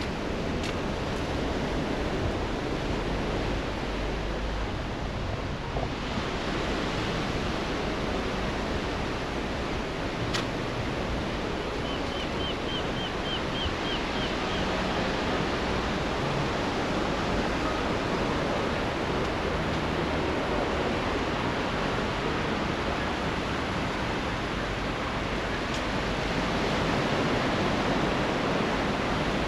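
Sea surf washing steadily on the shore, a continuous rushing noise that grows fuller about six seconds in. A short run of about eight quick high chirps comes briefly near the middle.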